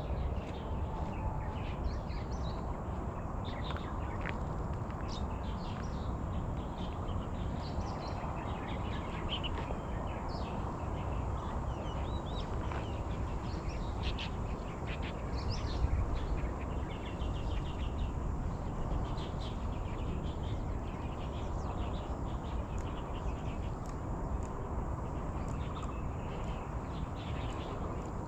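Birds chirping and calling over and over, short high notes scattered throughout, over a steady low outdoor rumble.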